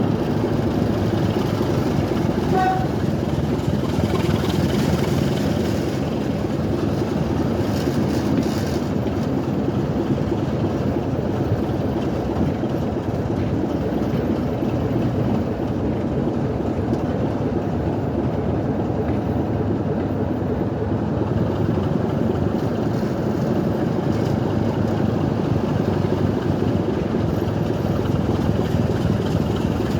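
A train running with a steady, even rumble, and one brief pitched toot about two and a half seconds in.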